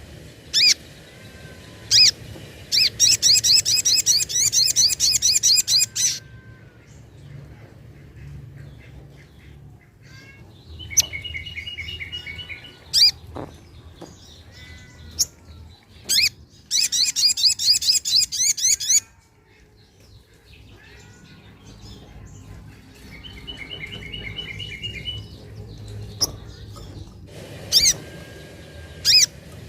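Little spiderhunter (sogok ontong) calling: sharp single notes and bursts of rapid, high trilling chatter lasting two to three seconds, with two lower, shorter trills in between.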